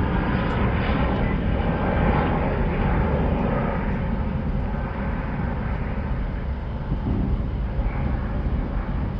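Airliner's jet engines at takeoff power: a dense, rumbling noise that slowly fades and dulls as the plane draws away.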